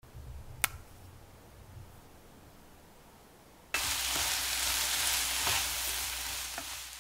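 A sweet potato stem snaps once between the fingers as it is peeled. About four seconds in, a loud sizzle starts suddenly: sweet potato stems, onion and chilli frying in a hot pan and stirred with a wooden spatula, with a few light knocks of the spatula.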